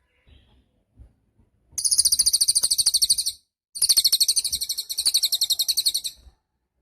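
Cililin songbird singing two long, high, rapid trills of evenly repeated notes, about ten a second. The first trill starts about two seconds in, and a brief pause separates it from the second.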